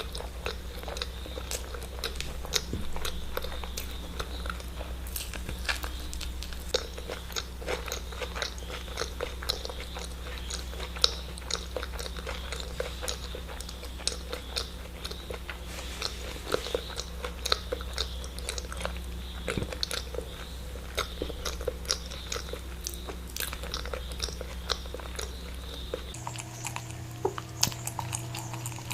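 Close-miked mouth sounds of eating eggs: irregular biting, chewing and wet smacking clicks over a steady low background hum. The hum changes near the end.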